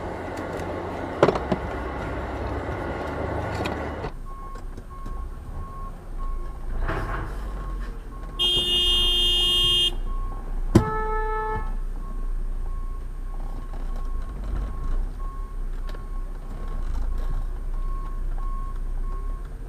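Road traffic heard from a vehicle, with a low rumble and a steady repeating beep. A car horn sounds for over a second, then a sharp bang, then a second short horn blast.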